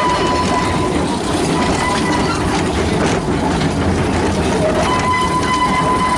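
Model train running on its track: a steady mechanical running noise with a thin high whine that drops out for a few seconds in the middle and then returns.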